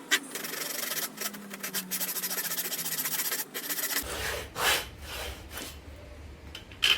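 Hand saw cutting through a piece of wood: a quick run of rasping strokes, then a few slower separate strokes as the cut finishes.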